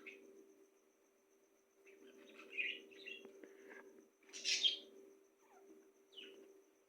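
Birds chirping in several short bursts, the loudest about four and a half seconds in, over a steady low hum.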